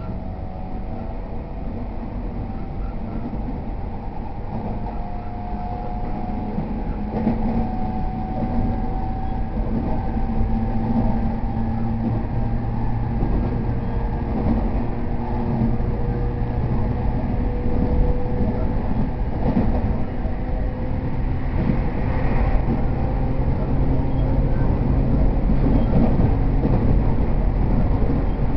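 Running sound inside a JR East E231 series commuter train on the move: a low rumble of wheels on rail with a steady motor whine that climbs slowly in pitch, growing gradually louder.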